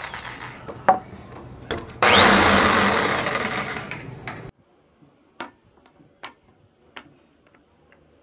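A woodworking power tool running on wood, starting abruptly about two seconds in and cutting off sharply about four and a half seconds in. A few light taps and knocks follow.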